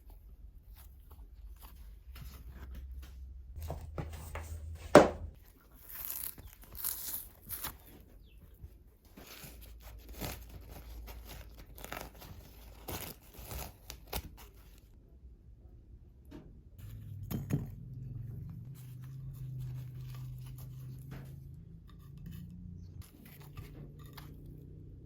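Irregular light clicks, knocks and rustling, as of things being handled, with one sharp knock about five seconds in. A low steady hum comes in about two-thirds of the way through.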